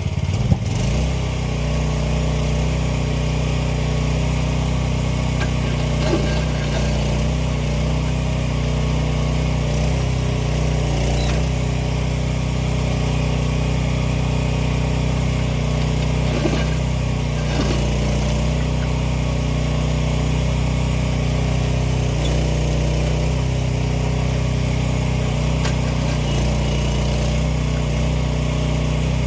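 The 15 hp gasoline engine of an AGT 1-ton mini excavator running at a steady speed, with a few faint knocks along the way.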